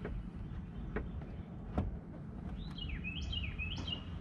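A songbird singing a quick phrase of repeated sliding chirps about two and a half seconds in, over steady low outdoor background noise, with a few faint clicks earlier on.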